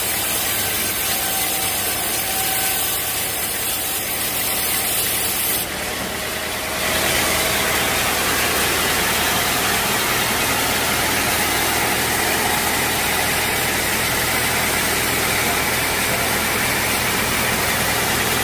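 Sawmill machinery running steadily. About six seconds in it dips briefly, then runs on slightly louder with more hiss.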